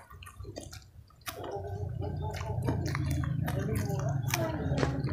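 Close-up wet chewing and lip-smacking of a person eating a mouthful of fried instant noodles, with many short sharp smacks and clicks. The mouth sounds grow louder about a second in.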